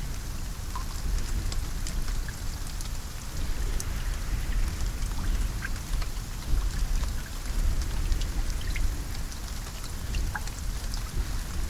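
Steady rain falling, with scattered individual drops ticking on a surface over a deep low rumble.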